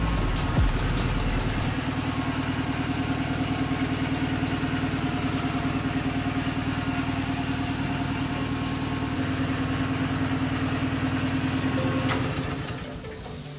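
A machine motor or engine running steadily at an even, idle-like pace with a fast regular pulse, dying away near the end.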